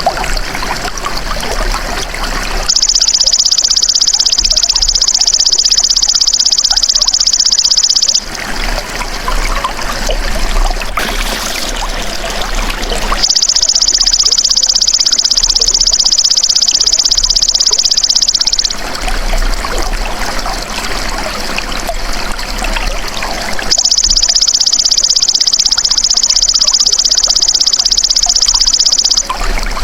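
Belalang emas ("golden grasshopper") insect calling in three long, high buzzing trills of about five seconds each, about ten seconds apart, over steady trickling water.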